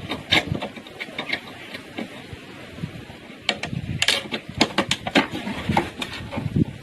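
Irregular knocks and clicks, as of hand work with tools or materials, with a denser run of sharp taps about four seconds in.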